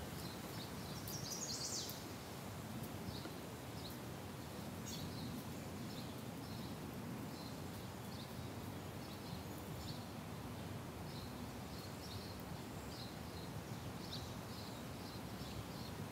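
Small birds calling outdoors: short high chirps, one or two a second, with a quick run of rising notes about a second in, over a faint steady background hum.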